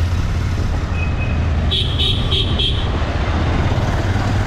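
Motorcycle on the move: a steady low rumble of engine and road noise. Around two seconds in, four short high-pitched beeps sound in quick succession.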